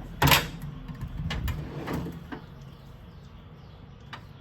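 Metal hand tools clinking and clattering as they are handled, with one louder clatter just after the start and scattered clicks after it.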